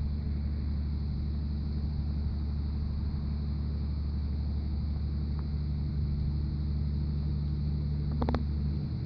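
A steady low rumble throughout. Near the end there is one brief, higher pitched sound.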